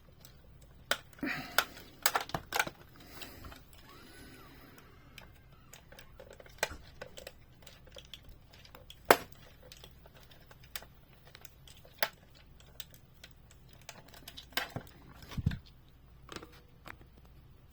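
Scattered clicks, taps and scrapes of a screwdriver working at small screws in a diecast car's base, the screws glued in and starting to strip so they won't come out, with a few louder knocks.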